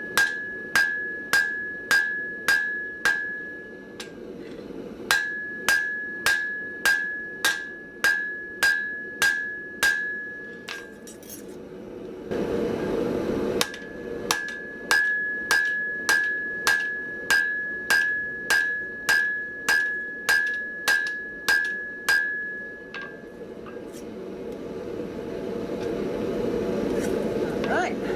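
Hand hammer striking hot mild steel on an anvil in runs of steady blows about two a second, each with a ringing note, while a shovel blank is forged out. The hammering stops twice; a brief rushing noise fills the second gap, and the same noise swells again after the last run near the end.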